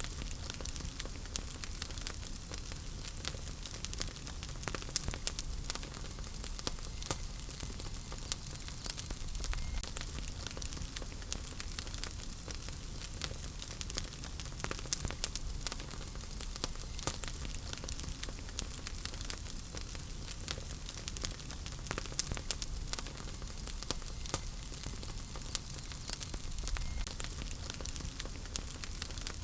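Wood fire in a fireplace crackling, with frequent sharp pops and snaps over a steady low hiss and rumble of the flames.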